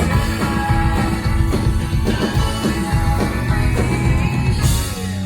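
Live rock band playing an instrumental passage, with drums and guitars, that drops back to a sparser, held chord near the end.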